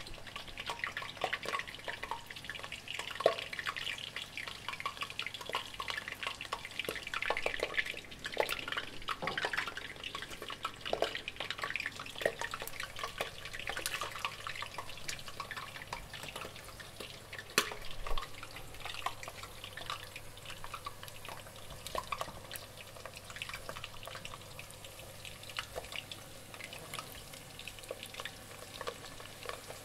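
Breaded cutlets frying in a pan of hot oil: a steady sizzle full of small pops and crackles, busiest in the first half and thinning out in the second, with a few louder single pops.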